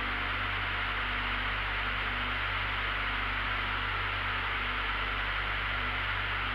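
Steady cabin noise of a light aircraft in flight: an even engine and propeller hiss with a low hum underneath, holding the same level throughout.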